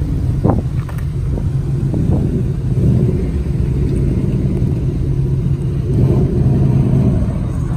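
Car engines running close by: a steady, loud low rumble, with a brief rising tone about half a second in.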